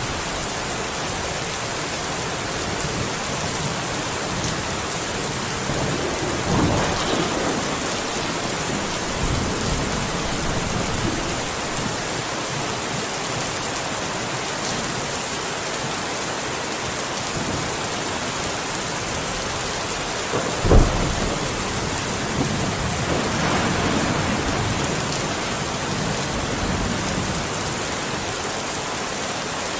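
Steady, even rain falling, with thunder: a low rumble about a fifth of the way in, a short sharp thunderclap about two-thirds through, and a longer rumble just after it.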